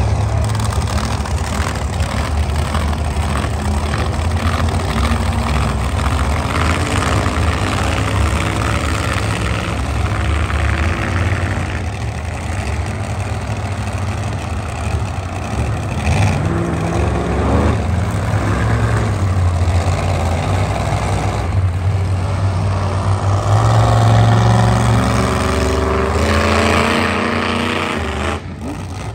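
Monster truck engines running after 'start your engines', with a loud low engine rumble throughout and repeated revs that rise in pitch. The longest rev climbs near the end.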